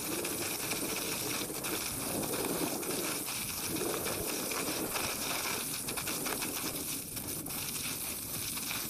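Mountain bike rolling down a rough trail: a steady rush of tyres over dirt, leaves and rocks, with scattered clicks and rattles from the bike.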